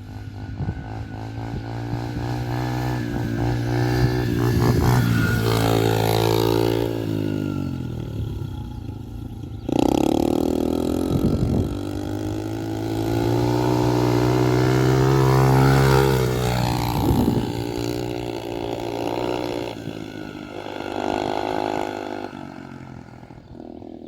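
Small motocross bike engine revving, its pitch rising and falling again and again as it speeds up and shifts. It jumps louder suddenly about ten seconds in and fades away near the end.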